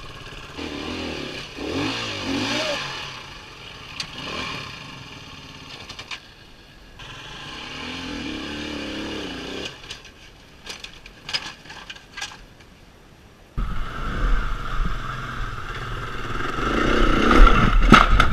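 Dirt bike engine revving in bursts, its pitch rising and falling, with some clattering knocks. About two-thirds of the way in the sound cuts abruptly to a louder, steadier engine run that builds toward the end.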